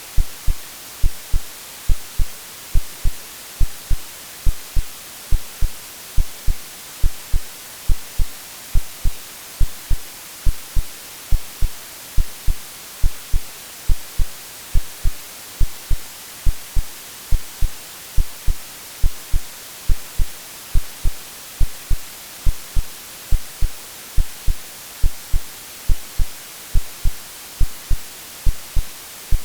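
AI-generated heartbeat sound, a slow, regular lub-dub of low double thumps about once a second, over a steady hiss of white noise. It is made as a womb-like sound to settle a baby to sleep.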